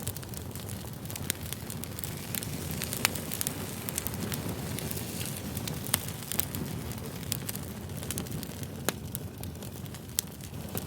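Campfire burning, a steady low rumble of flames with irregular sharp wood crackles and pops.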